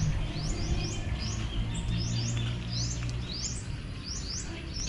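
Small birds chirping repeatedly, short high chirps two or three times a second, over a low steady hum.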